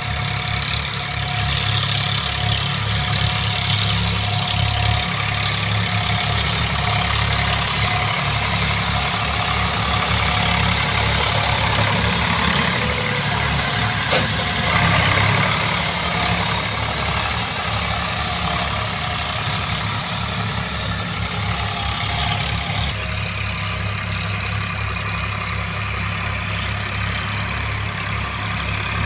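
A 40 hp tractor's diesel engine running steadily under load as it works a field, with a single sharp knock about halfway through.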